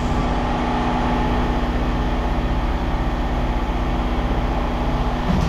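A machine's engine running steadily, a constant low rumble with a steady drone over it.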